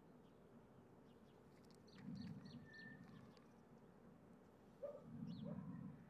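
Near silence, with faint scattered bird chirps and a couple of soft low rumbles about two and five seconds in.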